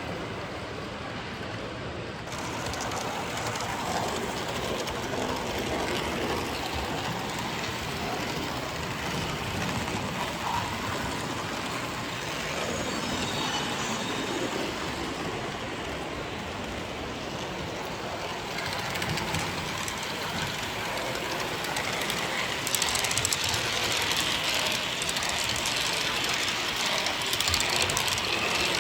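Model train running on its track with a steady rolling noise, growing louder and brighter for the last few seconds.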